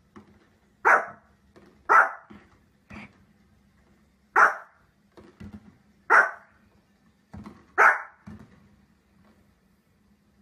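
A small Pomeranian barking: five sharp, loud barks spaced a second or two apart, with fainter, shorter sounds between them.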